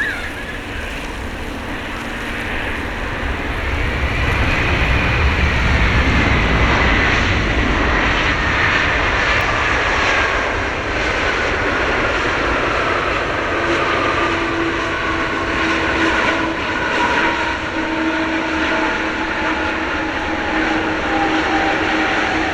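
Boeing 777-200ER airliner's jet engines passing by on landing, a loud rushing noise with a high whine that glides steadily down in pitch, growing louder from about four seconds in.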